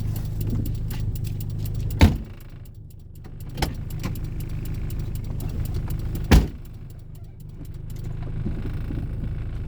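Toyota Corolla AE80's engine running with a steady low note. Two loud sharp knocks come about two seconds in and again about six seconds in, with a smaller knock between them. After each loud knock the engine sound drops, then builds back up.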